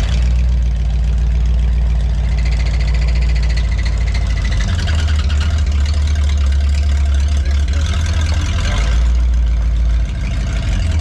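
Swapped-in V8 engine of a 1964 Ford Econoline van running with a steady low rumble. The sound shifts a little about halfway through and dips briefly near the end.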